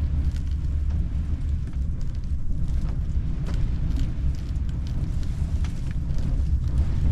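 Storm wind buffeting the microphone as a steady low rumble, with scattered faint ticks over it.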